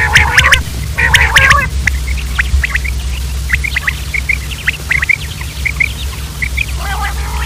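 Quail calling: two harsh, rasping calls in the first two seconds, then a run of short, high chirping notes, and another harsh call near the end, over a steady low hum.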